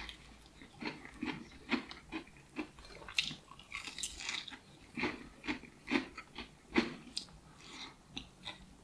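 A person biting and chewing a crispy fried chicken hot wing, with irregular crunches of the breaded coating.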